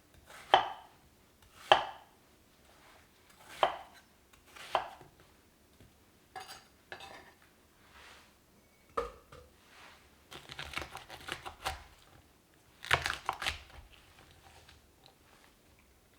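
Kitchen knife chopping on a cutting board: single sharp chops spaced out at first, then a quicker run of chops about ten seconds in and a last few near the end.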